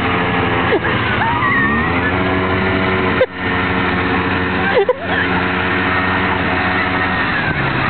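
Motorcycle engine running steadily, with voices calling over it; the sound drops out briefly twice.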